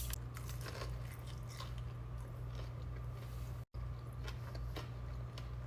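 Close-miked eating: a person biting and chewing food, with small crunches and wet mouth clicks, over a steady low hum. The sound cuts out completely for a moment about two-thirds of the way in.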